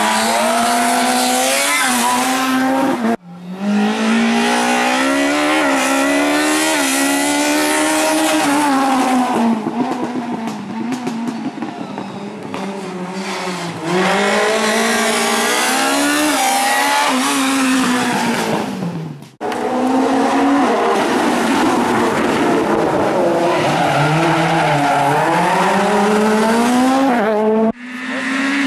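Rally cars driven hard on a closed special stage, engines revving up and dropping back over and over through gear changes and corners. The sound breaks off abruptly three times, moving from one car's pass to the next.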